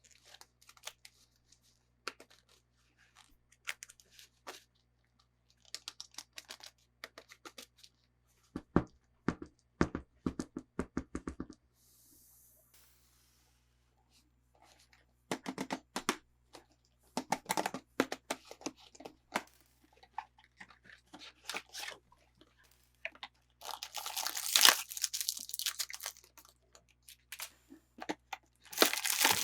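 Toy packaging being handled and opened by hand: scattered taps and clicks, a quick run of clicks about nine seconds in, then bursts of tearing and crinkling plastic and cardboard, loudest about twenty-four seconds in and again near the end.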